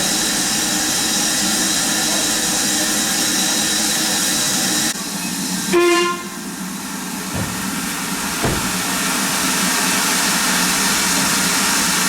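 Steam locomotive hissing steadily as steam escapes. The hiss drops off suddenly about five seconds in, a short whistle toot follows a second later, then come two dull knocks, and the hiss builds up again.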